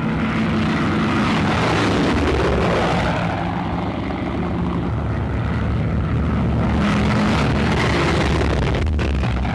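Piston-engined propeller aircraft flying past. The steady engine drone swells twice as it comes by.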